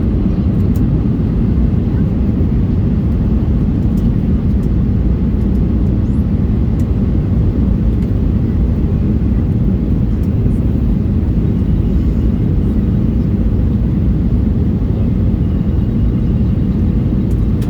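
Steady cabin noise inside a Boeing 737-800 in flight, heard at a window seat beside the wing: a low, even rumble of airflow and its CFM56-7B engines, with a faint steady hum on top.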